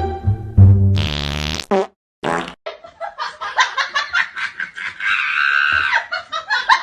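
Fart sounds from a prank: a long, deep fart that ends in a loud, wet, raspy blast about a second and a half in. After a short pause comes a stretch of quick, choppy sputters.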